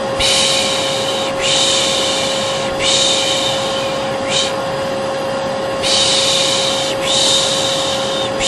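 Vacuum cleaner running with a steady hum, overlaid by a long 'shh' shushing sound of the kind used to lull a baby. The shushing is repeated about six times, each roughly a second long with short breaks, plus one brief shush near the middle.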